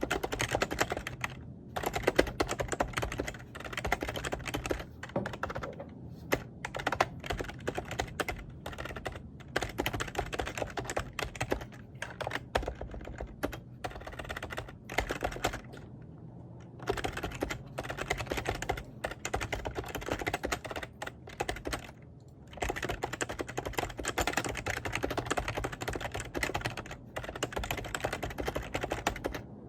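Typing on a computer keyboard: fast, dense runs of key clicks with a few short breaks and a longer pause about halfway through, over a steady low hum.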